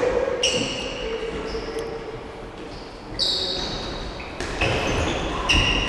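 Indoor mini-football being played in an echoing sports hall: the ball thuds off feet and the floor, and short high squeaks come from shoes on the hall floor.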